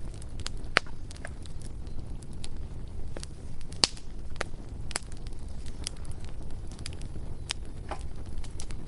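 Bonfire crackling: irregular sharp pops and snaps of burning wood over a low, steady rumble, with one louder pop about four seconds in.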